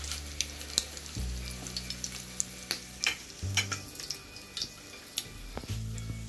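A slice of egg-dipped bread shallow-frying in a little oil in a pan over a low flame: a steady sizzle with scattered crackling pops.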